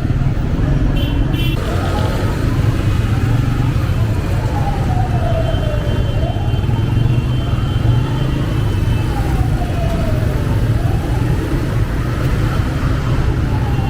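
A motorcycle runs steadily through city traffic, with a deep rumble of engine and wind. Over it, a wailing tone slowly falls in pitch and then jumps back up, repeating every two to three seconds.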